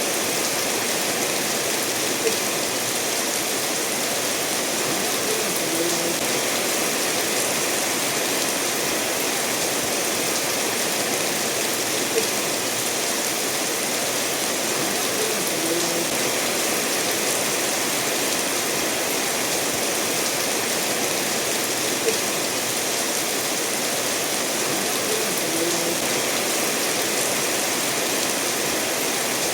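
Steady rain falling together with a stream running over stones, an even hiss. A small tick recurs about every ten seconds, each followed a few seconds later by a soft low plop.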